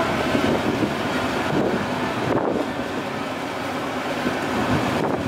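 Strong wind buffeting the microphone, a steady, fluctuating rush over the low running noise of a passenger ship.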